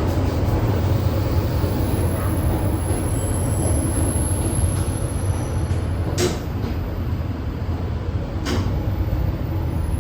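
ED4M electric multiple unit running on the rails, heard from on board: a steady low rumble, with two sharp clicks about six and eight and a half seconds in.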